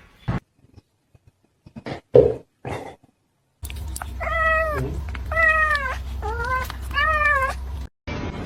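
A few short soft knocks, then a cat meowing four times, each meow rising and then falling in pitch, over a steady low background hum.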